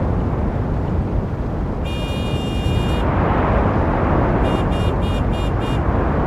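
Steady road traffic noise. A high-pitched horn sounds once for about a second, then gives five short quick toots near the end.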